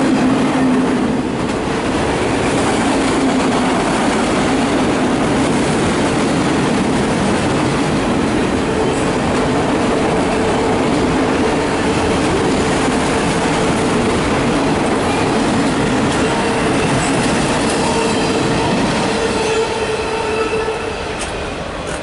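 An empty autorack freight train's cars rolling past close by: a steady rumble of steel wheels on the rails, with a held wheel squeal. The sound eases off a little near the end.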